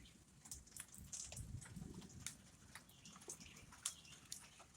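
Near silence: faint scattered ticks, with a faint low rumble about one and a half seconds in.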